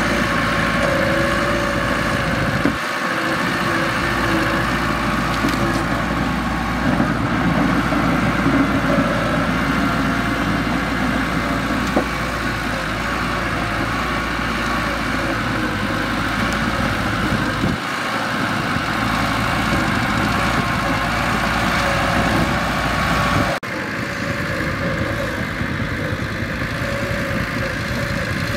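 Mitsubishi bulldozer's diesel engine running steadily, with a sudden drop in level about three-quarters of the way through.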